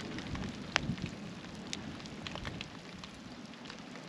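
Cold rain falling, drops ticking irregularly over a steady low hiss, with one sharper tick just under a second in.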